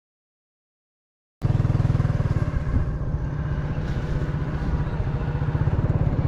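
Dead silence for about a second and a half, then a motorcycle engine running steadily with a fast, low pulsing.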